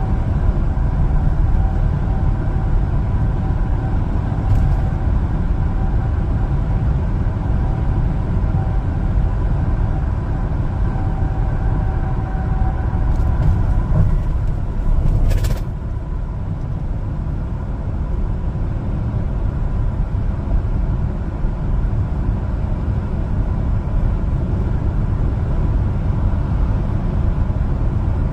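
One-ton LPG cargo truck on the move: steady engine and road rumble. A faint whine runs underneath and fades out about thirteen seconds in, and there is a brief click about two seconds later.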